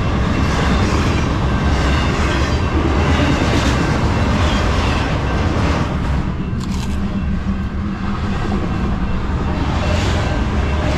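A train passing close by: a steady, loud rumble with rail and wheel noise.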